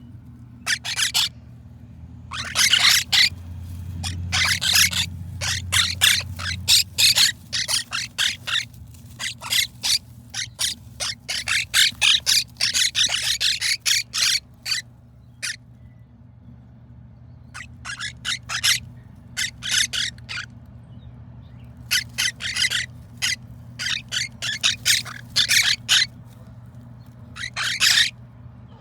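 Baby quaker parrot (monk parakeet) chicks giving harsh, raspy squawks in quick repeated bursts, with short lulls between the clusters.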